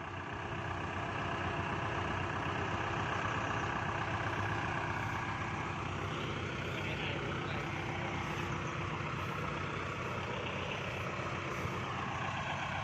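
Diesel tractor engine running steadily, growing louder over the first couple of seconds and then holding at an even level.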